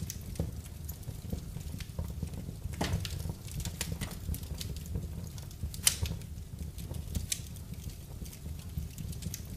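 Wood fire in a fireplace crackling, with irregular sharp pops, one louder pop about six seconds in, over a low steady rumble of the flames.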